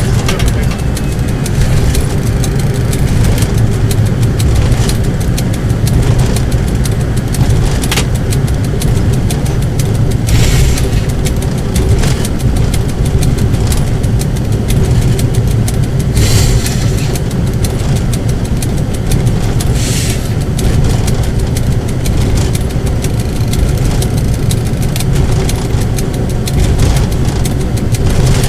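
Car engine running steadily while driving: a constant low drone, with a few short hisses.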